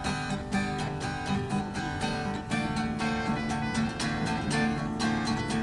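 Acoustic guitar strumming chords in a steady rhythm: an instrumental passage of a rock song played live.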